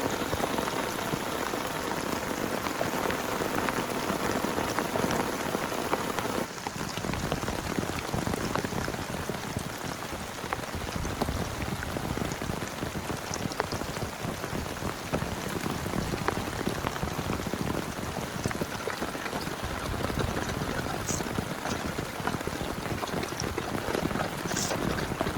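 Heavy rain falling steadily, a dense noise of drops hitting a surface. About six seconds in the sound changes abruptly to a lower, less hissy rain.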